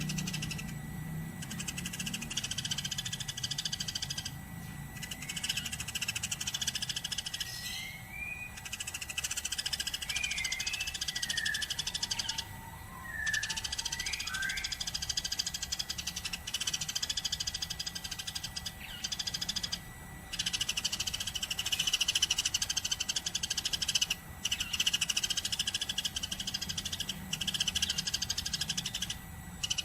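Eurasian tree sparrow chirping in fast, continuous chattering runs broken by short pauses, with a few lower sliding whistle notes in the middle.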